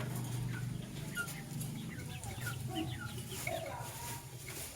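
Lovebirds chirping and chattering: a busy run of short, quick chirps, many falling in pitch, over a steady low hum.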